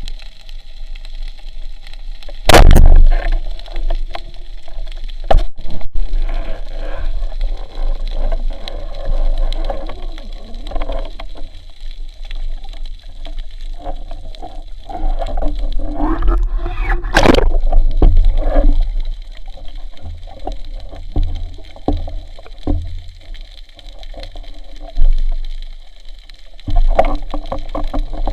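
Muffled water noise of spearfishing footage, with bubbling and gurgling, scattered knocks and scrapes, and two loud sudden thumps, the first about two and a half seconds in and the second around seventeen seconds in.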